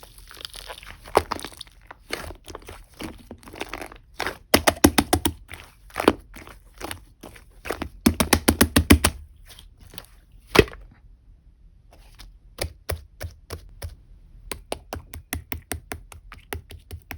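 Clay-mixed slime being squeezed and stretched by hand, giving runs of quick sharp clicks and pops from trapped air bubbles. The densest run comes about two-thirds of the way in, with one loud pop just after; it goes quieter for a few seconds, then the clicking starts again.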